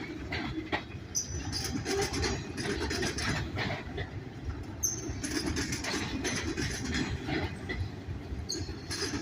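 Cars of a CSX manifest freight train, loaded coil cars among them, rolling past at close range: a steady rumble with clacking of the wheels over the rail joints. Brief high wheel squeals come three times.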